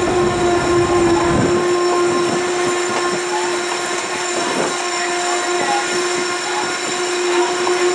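Narrow-gauge train rolling along the rails: a steady, noisy rumble with a steady tone held throughout.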